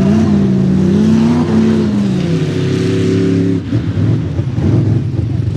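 Mega mud truck engines revving hard, their pitch rising and falling several times. About three and a half seconds in, the steady engine tones give way to a rougher, lower rumble.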